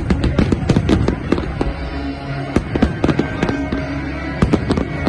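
Aerial fireworks shells bursting in quick succession, many sharp bangs and crackles in clusters, with music playing under them.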